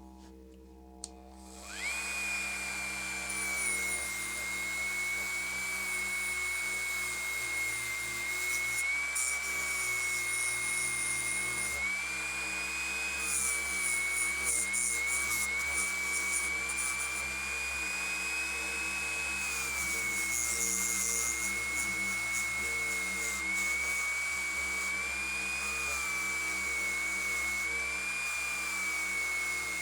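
Dremel rotary tool starting up about two seconds in and running with a steady high whine that rises and dips slightly in pitch as it polishes and cleans up the bare diecast metal casting of a model car.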